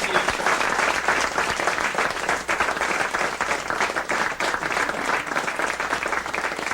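Audience applauding, a dense and steady clapping that eases off slightly near the end.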